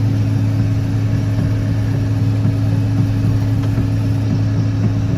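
Case IH 1680 combine running steadily, a constant low drone with a strong hum that holds the same pitch and level throughout.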